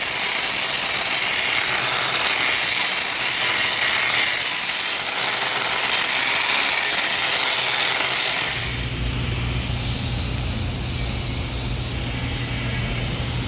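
MIG welding arc crackling and hissing steadily for about eight and a half seconds, then stopping, leaving a steady low hum.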